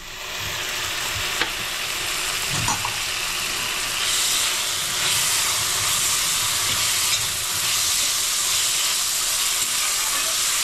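Chopped tomatoes sizzling in hot fat with fried onion and ginger in a stainless steel kadai, stirred and scraped with a steel spatula. The sizzle grows louder about four seconds in.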